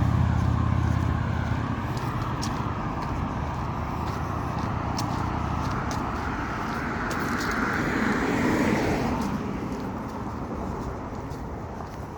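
Road traffic: a motor vehicle's low rumble fades away over the first couple of seconds, then another vehicle swells up and passes about eight to nine seconds in before fading.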